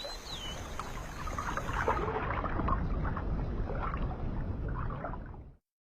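Low rumbling water sloshing and gurgling with scattered splashy sounds, and a brief high chirp at the start; it cuts off abruptly near the end.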